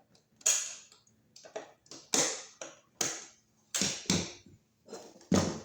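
A run of sharp clicks and taps, about eight in a few seconds, irregularly spaced: a screw and tool working against a metal electrical box as a ground wire loop is fastened under the screw head.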